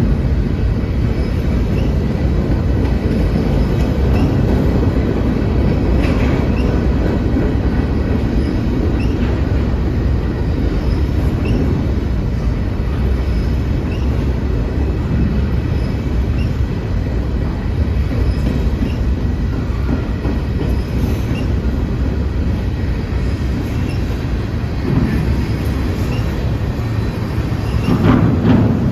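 Freight train rolling past: a steady, loud rumble of wagons on the rails, with scattered wheel clicks.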